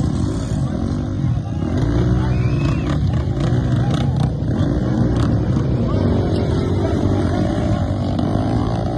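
Enduro motorcycle engines revving up and falling back again and again, as when a bike is eased slowly over rough ground, with a few sharp knocks in the middle.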